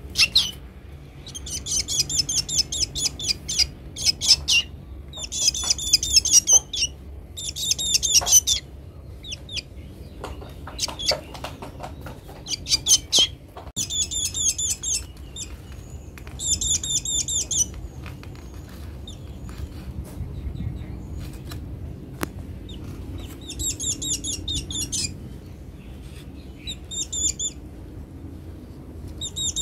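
A black bird calling in high-pitched bursts of rapid, repeated notes, each burst one to two seconds long with short pauses between: a hungry bird begging for food.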